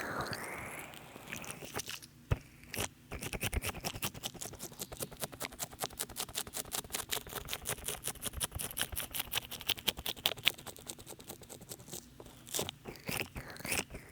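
Oil-slick hands massaging a binaural microphone, wet and sticky from too much oil. A soft rub gives way about three seconds in to a fast run of wet squelching clicks, with a few louder smacks near the end.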